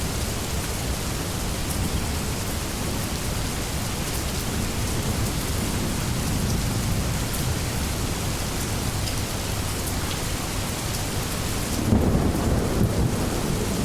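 Steady rainstorm, rain falling on surfaces, with a sudden thunderclap and rumble near the end.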